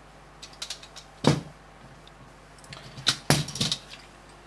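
Plastic LEGO pieces clicking and snapping together by hand: a few light clicks, a loud snap about a second in, then more light clicks and a quick cluster of loud snaps a little after three seconds.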